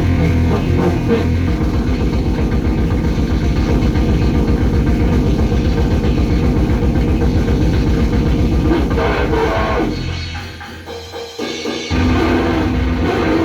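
Loud cybergrind/noise music played live, a dense wall of guitar and drums at a very fast beat. It drops out for about two seconds near the end, then crashes back in.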